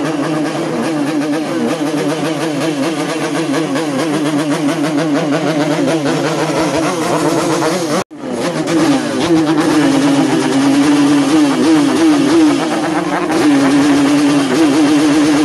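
Two-stroke Yamaha RX-King motorcycle engines revved in place, the throttle blipped up and down again and again. After a cut about eight seconds in, one engine is louder, its revs rising and falling in quick repeated blips.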